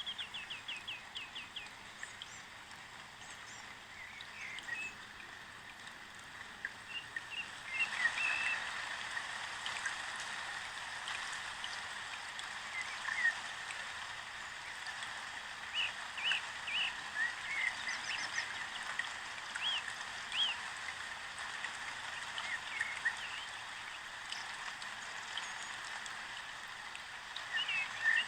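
Small birds chirping in short, quick calls scattered throughout, over a steady hiss that gets louder about eight seconds in.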